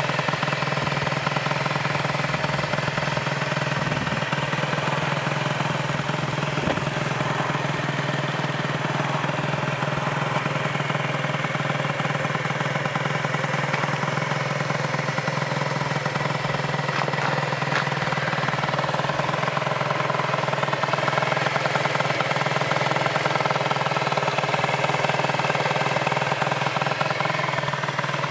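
The small two-stroke single-cylinder engine of a 2002 Gilera DNA50 moped idling steadily at an even pitch.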